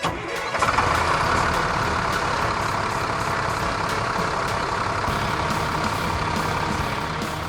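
A heavy vehicle engine running steadily, a truck-like motor sound effect that cuts in suddenly at the start.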